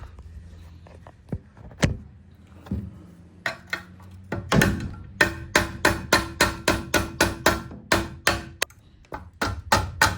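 Mallet striking an air-chisel bit to drive out a nut jammed where it stops the engine from turning: a few single knocks, then a fast run of sharp metallic strikes, about three a second, each with a brief ring.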